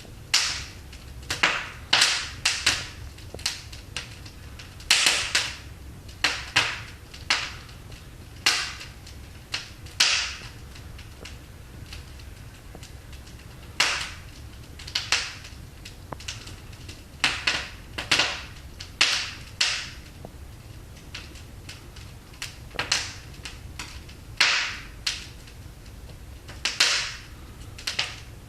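Burning logs in a wood fireplace crackling and popping: irregular sharp snaps, sometimes several in quick succession, sometimes a few seconds apart, over a low steady rumble from the fire.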